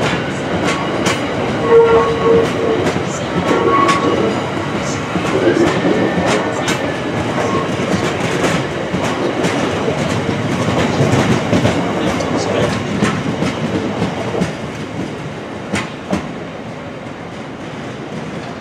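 Freight train of Tarmac cement tank wagons rolling past, its wheels clacking over rail joints and pointwork with a steady rumble and a few brief squeals. It fades as the last wagon goes by near the end.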